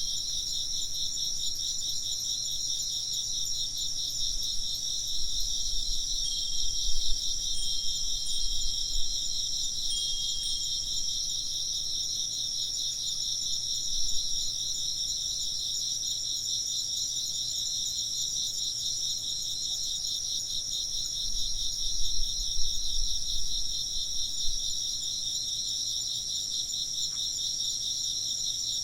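A chorus of crickets chirping steadily in fast, pulsing trills. A few faint, high wind-chime notes ring out just after the start and again about six and ten seconds in.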